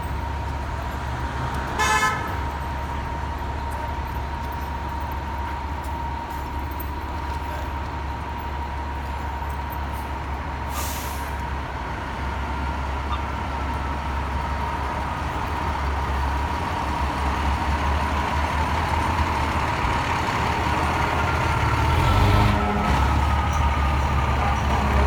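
Fire apparatus running with a steady low engine rumble and a steady high tone, with one short horn blast about two seconds in. Over the second half a fainter tone slowly falls in pitch as the sound gets louder.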